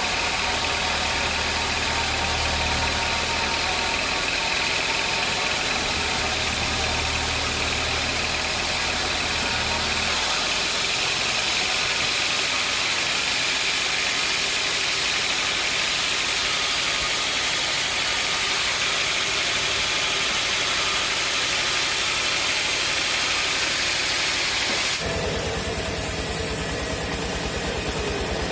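Sawmill machinery running steadily: a low engine hum under a strong hiss. The low hum drops away about a third of the way in, and the sound changes abruptly near the end.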